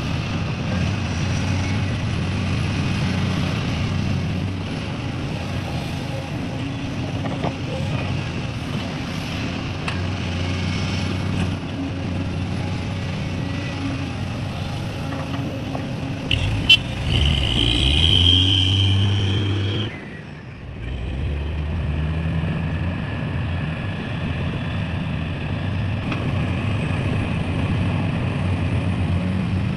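Heavy diesel machinery running steadily at an excavator loading dump trucks with soil. A little past halfway a sharp click is followed by about three seconds of louder running with a high steady whine on top; the level dips briefly, then the steady running resumes.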